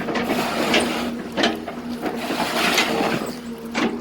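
Excavator engine running steadily while its bucket chops oil palm trunks, with several sharp cracks and crunches of splitting wood.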